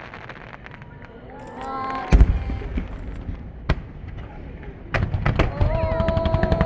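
Aerial fireworks going off at close range: light crackling, then a heavy boom about two seconds in and a single sharp crack a little later, and from about five seconds a dense run of rapid crackling bangs.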